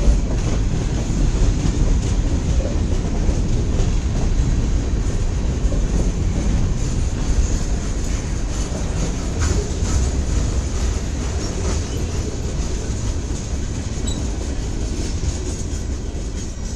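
Freight cars of a long Canadian National mixed-freight manifest train rolling past, a continuous rumble of steel wheels on the rails that eases off slightly near the end.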